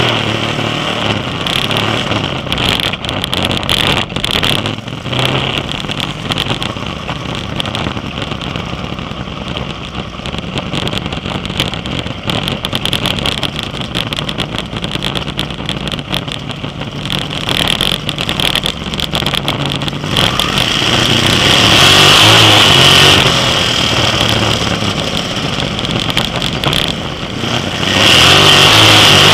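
Sprint car engines running, a continuous loud mechanical noise that swells louder for a few seconds about two-thirds of the way through and again near the end.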